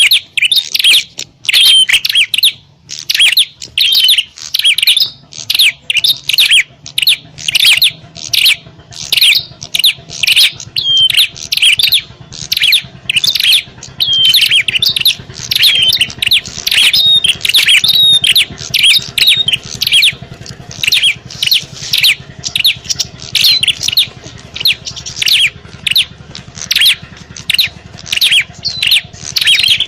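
Prinias calling in a loud, rapid run of sharp, high chips and trills, several a second with only brief gaps: the agitated calls of prinias fighting, used as a lure to draw in wild prinias.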